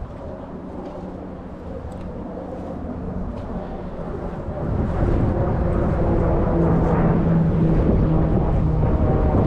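A distant engine drone at a steady pitch, growing clearly louder about halfway through and holding there.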